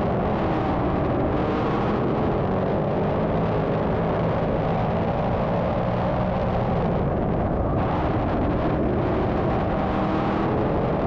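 Engines of dirt-track modified race cars running hard under green, a steady dense drone that holds level throughout.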